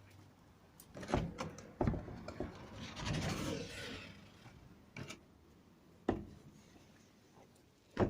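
A few sharp knocks and a rough scraping rub about three seconds in, the sound of something being handled or moved.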